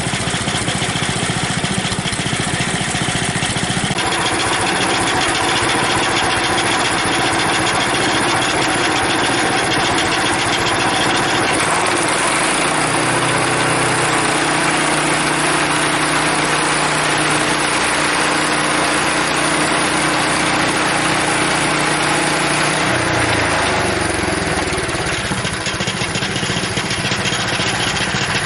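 Frontier OS23 sawmill running, its engine and band blade sawing a log into a cant. The sound steps up about four seconds in, and the engine's note shifts about twelve seconds in and again near the end.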